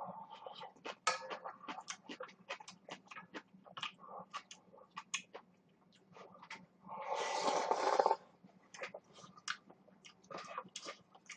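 Close-miked eating sounds: rapid wet smacking and chewing clicks of a mouthful of ramen noodles, with one rushing sound lasting about a second, about seven seconds in.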